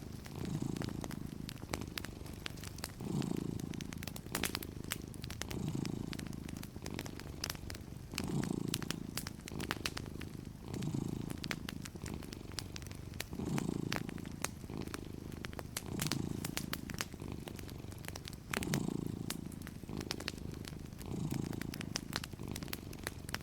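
Domestic cat purring steadily, the purr swelling and easing with each breath about every second and a quarter, over scattered sharp pops and crackles of a wood fire.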